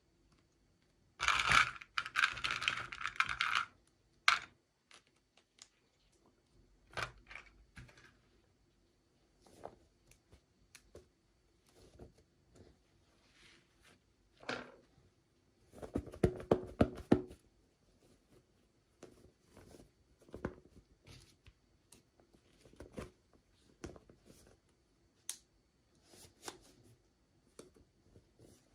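Packaging being torn open and handled: two bursts of crinkling and tearing, one about a second in and one past the middle, with scattered small clicks and taps between them.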